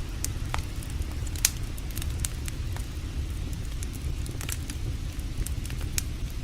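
Campfire wood crackling, with sharp irregular pops scattered through, over a steady low rushing noise.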